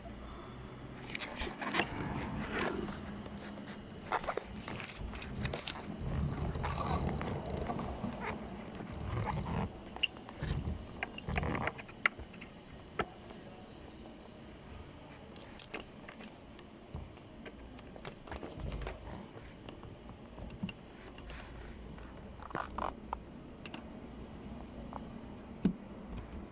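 Irregular clicks, knocks and scrapes of metal tools and parts being handled during repair work on a truck engine.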